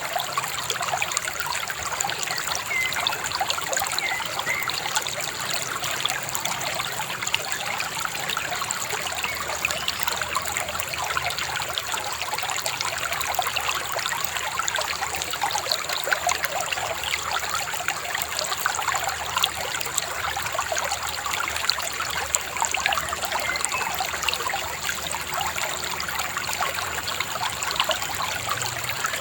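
A shallow river babbling and trickling steadily over stones, with a few faint bird chirps now and then.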